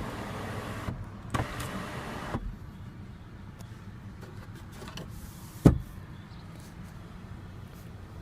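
Electric moonroof motor running with a steady whir, stopping about two and a half seconds in. A single sharp click follows a few seconds later.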